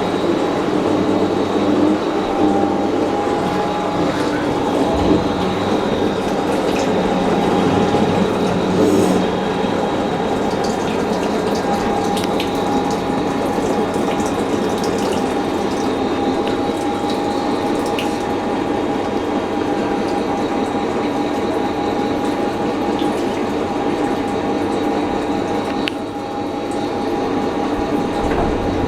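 Fisher & Paykel MW512 washing machine running: a steady mechanical whir with a few held tones over a rushing, water-like hiss.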